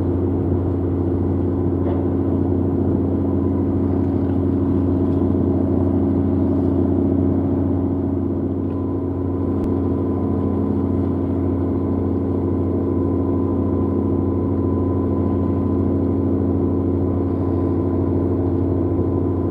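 Reefer cargo ship's diesel engine and machinery running at a steady drone as the ship passes, a low hum with a faint high whine over it.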